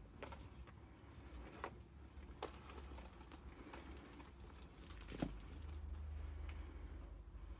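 Paper pages and ephemera of a junk journal being handled and turned: light taps and soft rustles, with a louder crisp paper rustle about five seconds in.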